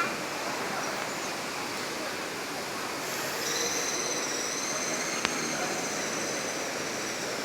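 Steady rushing of water from an indoor waterfall. About halfway in, a thin, steady high-pitched tone joins it for a few seconds, and there is a single sharp click near the end.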